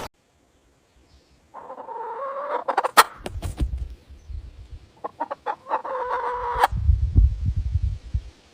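Chicken calling twice, each call a drawn-out, steady-pitched note about a second long, with sharp clicks around them and a low rumbling noise after each call.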